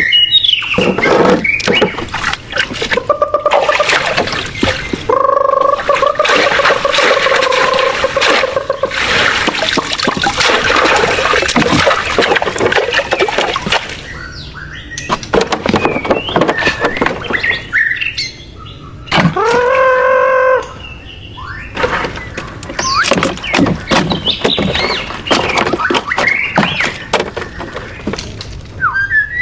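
Bird calls and chirps mixed with many short clicks and knocks of handling. There are two longer pitched calls: one held for several seconds about five seconds in, and one with a rising start about two-thirds of the way through.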